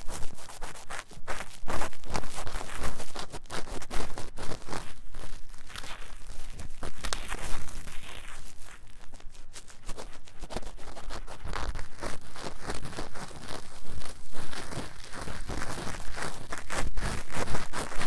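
Ear-cleaning tools scratching fast and hard inside the ears of a 3Dio binaural microphone: a dense run of rapid, close-up rubbing and scraping strokes.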